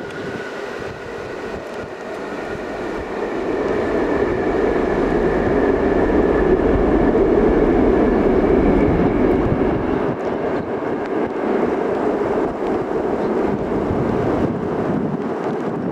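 Jet airliner's engines passing close by, the roar swelling to a peak about halfway through and then easing, with a faint high whine over it. Wind buffets the microphone.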